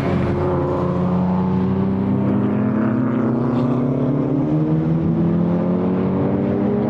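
Time attack race car's engine accelerating under load, its note climbing slowly for the first few seconds and then holding steady.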